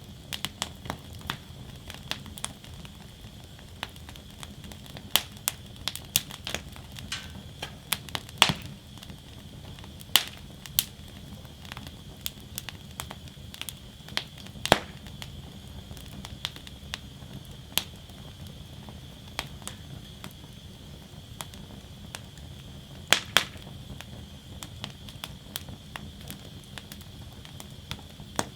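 Wood fire burning in a steel fire basket, crackling steadily over a low rumble, with irregular sharp cracks and a few louder pops of burning wood.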